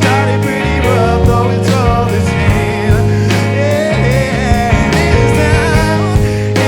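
A band playing an indie rock song, with drums keeping a steady beat under bass and a wavering melody line.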